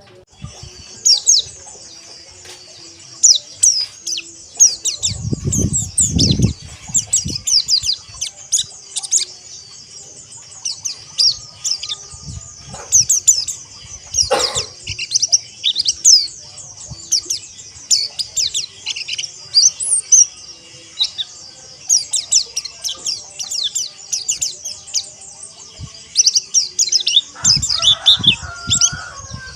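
A flock of white-eyes (pleci) twittering nonstop in quick, high, falling chirps, the rapid 'ngeriwik' chatter. A few dull low thumps come in around six seconds and again near the end.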